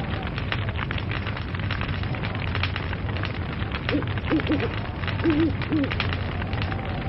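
Log fire crackling steadily with many sharp pops over a low rumble, with a handful of short hoot-like calls about four to six seconds in.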